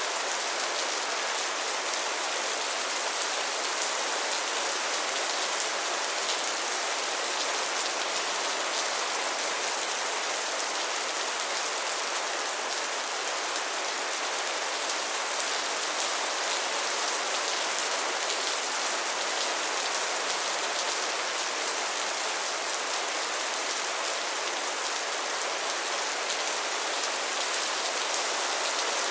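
Steady rain falling, an even hiss with faint drop patter that holds at the same level throughout.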